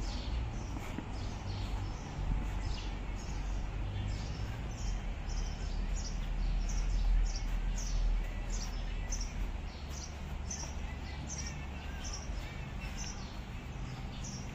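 A small bird chirping over and over, short high chirps about twice a second, over a low steady rumble.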